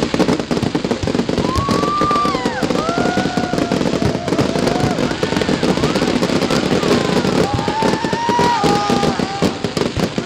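A dense, continuous crackle of firecrackers and fireworks going off in rapid succession, with several rising and falling high-pitched tones over the bangs.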